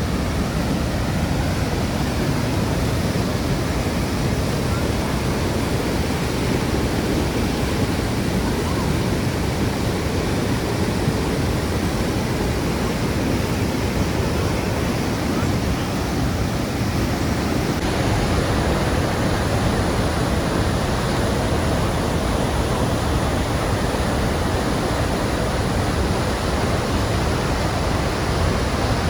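Sunwapta Falls' water rushing in a steady, loud, even noise that never lets up.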